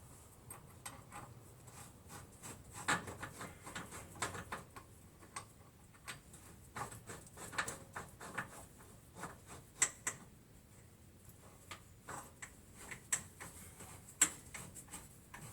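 Irregular light clicks and knocks of metal parts and hand tools being handled while suspension bolts and nuts are fitted.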